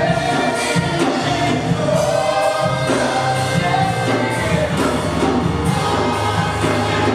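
Live worship music: a group of voices singing together over a full band with bass and drums.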